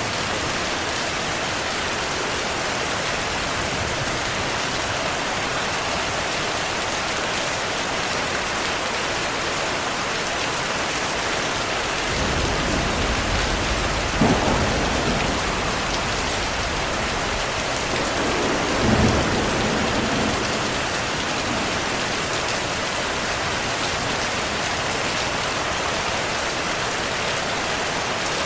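Steady heavy rain, with a roll of thunder a little before halfway through that rumbles for several seconds, with two louder claps within it.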